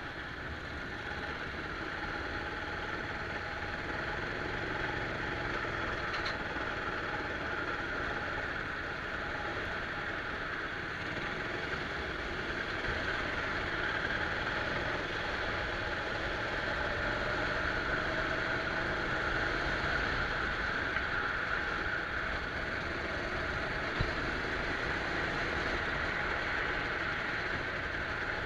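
Go-kart engine running at varying revs while lapping, heard from a camera mounted on the kart, its note rising and falling gently.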